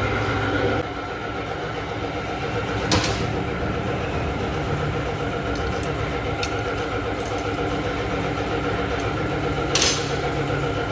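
Honda CB150 motorcycle engine idling steadily, dropping slightly in level about a second in. Two sharp clicks are heard, one about three seconds in and one near the end.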